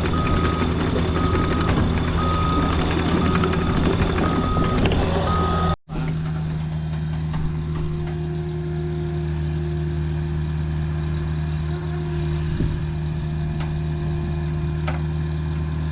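Diesel engine of heavy equipment running steadily, with a backup alarm beeping at an even pace. About six seconds in the sound drops out for a moment; after that the engine runs on alone without the beeps.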